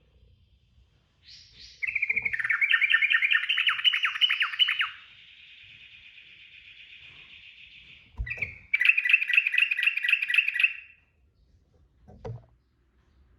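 Yellow-vented bulbul (trucukan) singing in fast rolling trills, the long chattering 'ropel' phrase. There are two bursts of rapid notes: one from about two seconds in, lasting about three seconds, and another near the middle, lasting about two seconds.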